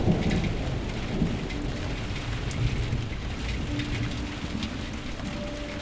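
Storm sound: a heavy low rumble like thunder at the start, then steady rumbling noise with scattered crackles like rain. A steady low sustained note comes in about two-thirds of the way through.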